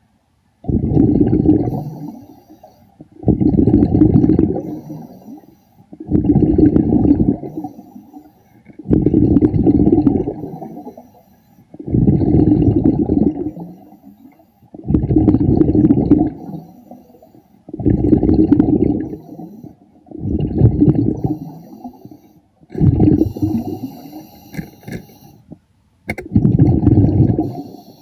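Underwater breathing of a diver through a regulator: each exhalation sends out a loud gush of bubbles that rumbles for a second or so, repeating evenly about every three seconds, ten times over.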